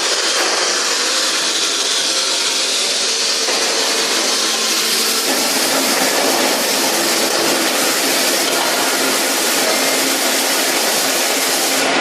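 Automatic scaffolding welding machine running: a steady, loud hissing machine noise that thickens about five seconds in.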